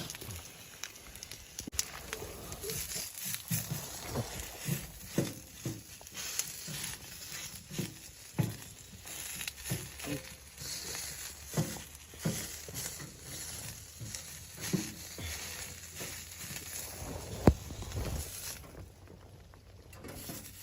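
Irregular soft knocks and crunching rustles, roughly one or two a second, over a steady hiss, with one sharper knock near the end.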